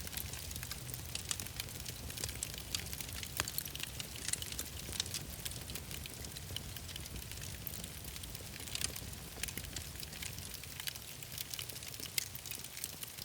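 Wood fire in a fireplace crackling, with irregular small pops and snaps over a low steady rumble.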